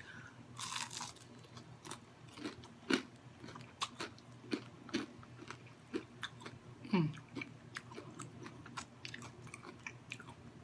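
Close-up chewing and biting of fried food, with irregular crunches and wet mouth clicks.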